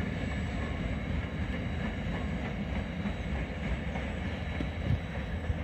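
Wagons of a coal freight train rolling away over the rails: a steady rumble of wheels on track, with a single knock near the end.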